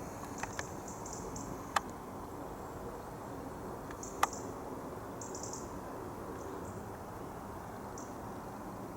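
Outdoor ambience: a steady low rumble with short high chirps of small birds now and then, and two sharp clicks, one about two seconds in and one about four seconds in.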